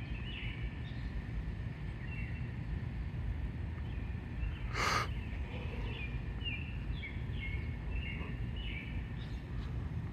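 Birds chirping in short repeated phrases over a steady low rumble of wind noise, with one brief rush of noise about five seconds in.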